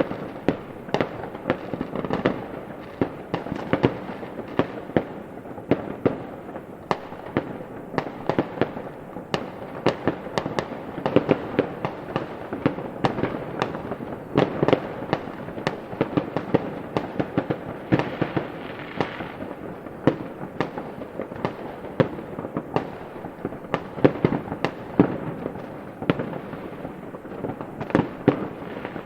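Fireworks display: a dense, continuous barrage of bangs and pops, several a second and irregular, over a steady rumble of echoing bursts.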